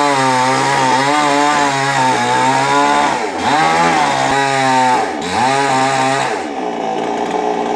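Chainsaw engine running at high revs, its pitch dipping and recovering twice and then falling away near the end.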